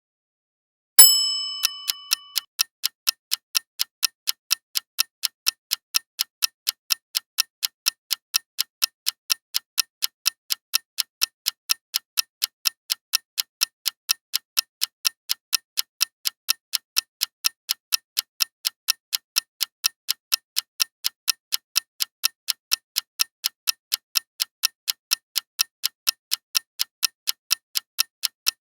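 Countdown timer sound effects: about a second in, a start alert rings out with several bright pitches and fades over a second and a half. Then steady, evenly spaced clock-like ticking follows at a few ticks a second.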